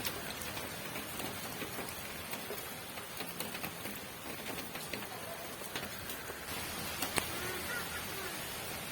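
Steady rain falling: an even hiss with many scattered sharp drop ticks, and one louder tap about seven seconds in.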